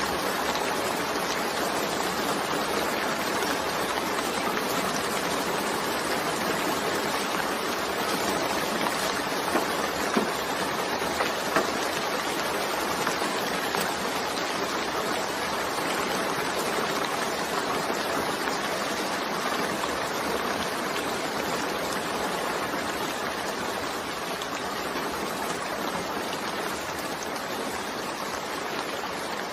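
Steady rainfall, an even hiss, with a few sharper drop ticks about a third of the way through.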